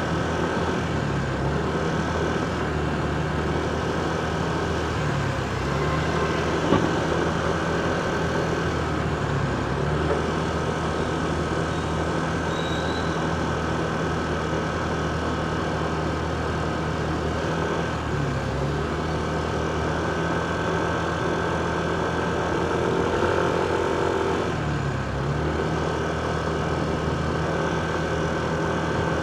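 Motorcycle engine running steadily at low road speed, its pitch dipping briefly every few seconds, over the steady noise of surrounding road traffic. A short knock sounds about seven seconds in.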